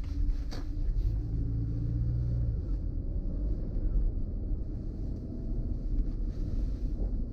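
A car being driven: a steady low rumble of engine and road noise, with a steady engine hum for a second or so early in the stretch.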